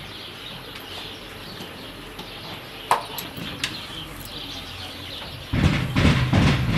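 A few short bird chirps over a quiet stable background. About five and a half seconds in, a loud run of rattling and knocking begins.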